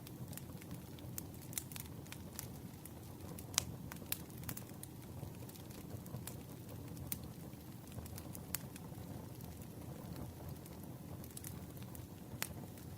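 Campfire crackling: irregular sharp pops and snaps over a steady low rumble, the loudest pop about three and a half seconds in.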